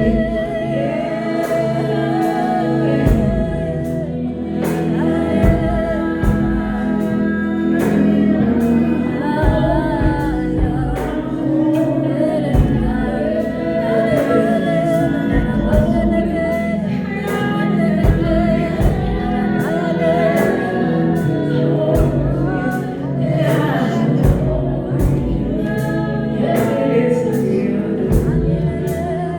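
Gospel worship song: voices singing over instrumental backing with a steady beat and strong bass.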